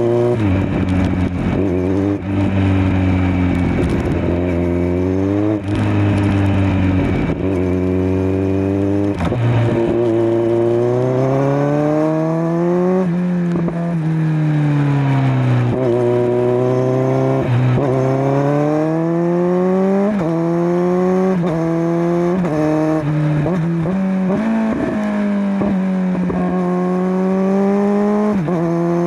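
2021 Kawasaki Z900's inline-four engine through a LeoVince LV10 slip-on exhaust, under way: the revs climb and then drop sharply again and again as it works through the gears, with a run of quick short rev rises and falls in the second half.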